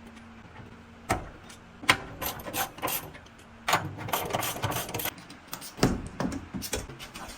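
Hand tools knocking and scraping on the parts of an industrial washing machine during a bearing replacement: a few sharp knocks, with stretches of rasping, rubbing noise in between.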